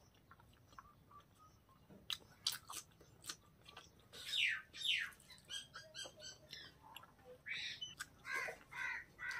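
Close-miked chewing and wet mouth sounds of someone eating pork and rice by hand, with sharp clicks from about two seconds in. Through the second half a bird calls repeatedly, a run of quick pitched notes followed by evenly spaced calls.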